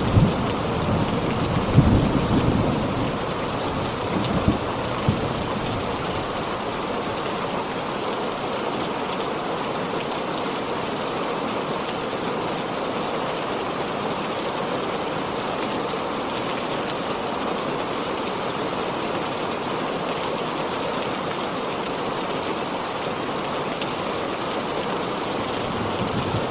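Heavy rain falling steadily, with thunder rumbling low in the first few seconds before the rain goes on alone.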